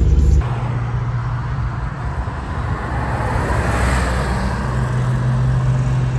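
A Porsche sports car driving past: engine and tyre noise swell to a peak about four seconds in, then fade as it goes by.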